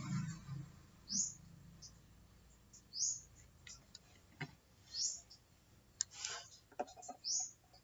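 A bird calling outside with a short, high, rising chirp about every two seconds, four times over, with a few faint clicks and rustles in between.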